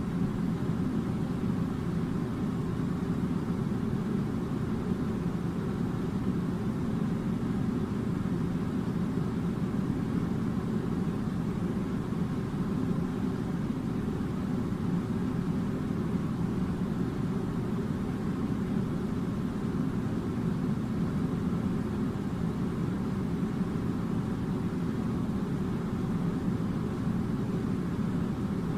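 Air conditioner running with a steady low hum that does not change.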